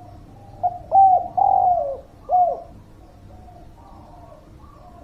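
Spotted dove (derkuku) cooing: one phrase of four coos about a second in, the third note long and the last falling in pitch, with fainter cooing after it.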